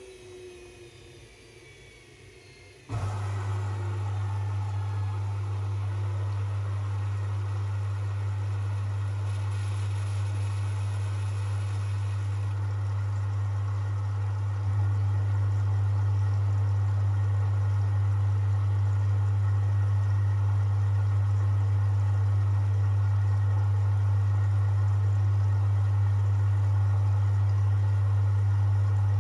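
Privileg 5020 washing machine's drain pump switching on about three seconds in and running with a loud, steady low hum that grows louder around halfway through.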